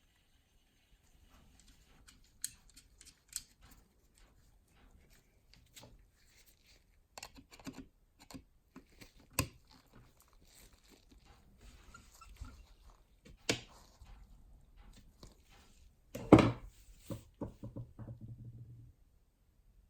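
Scattered light clicks and taps of small parts being handled and set down. About sixteen seconds in there is a louder knock, followed by a quick run of lighter knocks.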